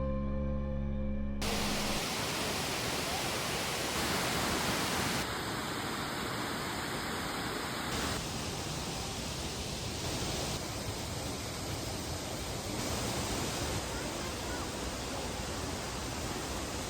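Music with held notes for the first second and a half, then the steady rushing of a waterfall, an even roar whose level and tone shift slightly every few seconds.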